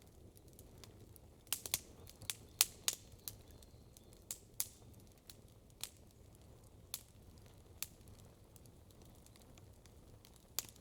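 Wood campfire crackling: sharp, irregular pops, a quick cluster of them about a second and a half in, then single pops every second or so over a faint low background.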